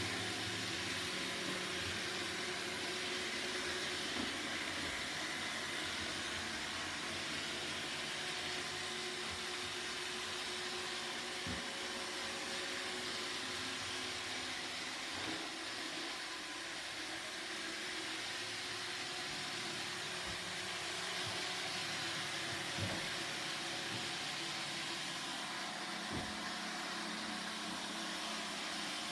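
Roomba robot vacuum running steadily, its motor hum and brush whir constant, with a few faint short knocks now and then.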